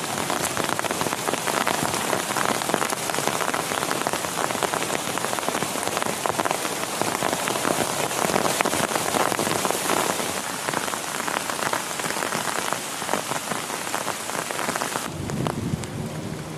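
Heavy rain falling hard on a surface, a dense patter of countless drops. About a second and a half before the end it cuts suddenly to a duller, lower rumbling noise.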